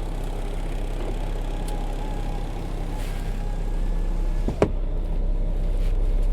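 Semi truck's diesel engine idling steadily, heard from inside the cab, with a single sharp click about four and a half seconds in, after which the higher hiss drops away.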